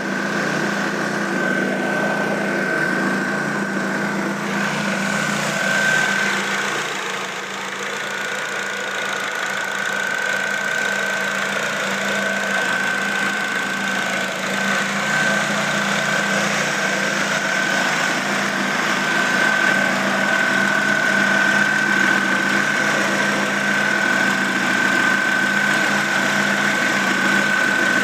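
Vehicle engine idling steadily with an exhaust leak, a constant high-pitched tone sitting over the engine note.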